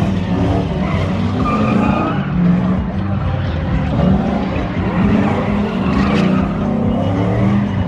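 Loud truck engines running and revving, rising and falling in pitch over a steady haze of noise.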